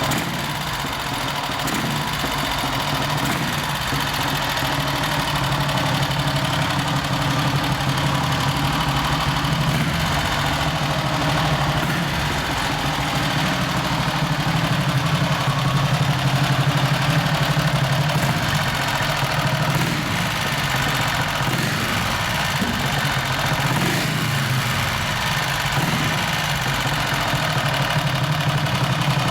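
1950 Vincent Comet's 499cc single-cylinder OHV four-stroke engine idling steadily.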